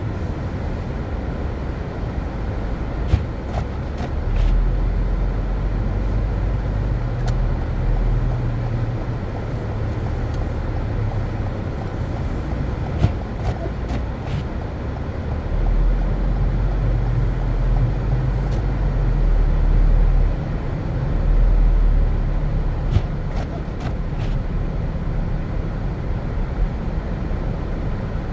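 A car driving on snow-covered streets: a steady low road and engine rumble that swells a few times, with a few scattered faint clicks.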